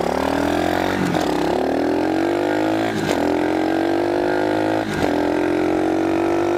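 Small single-cylinder pit bike engine pulling away and accelerating, rising in pitch, with short breaks about one, three and five seconds in as it shifts up through the gears, then running at a steady pitch.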